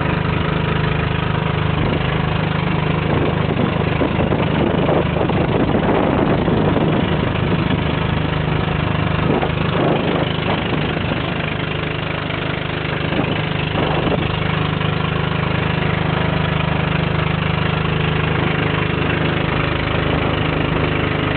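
Boat engine running steadily with a constant low hum, with a few brief rushes of noise about a third and two thirds of the way through.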